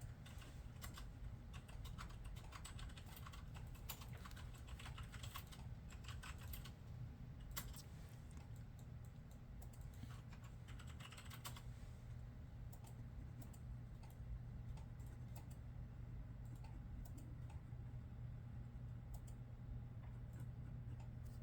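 Typing on a computer keyboard: runs of quick key clicks, thickest in a couple of bursts early and in the middle, then sparser. A steady low hum runs underneath.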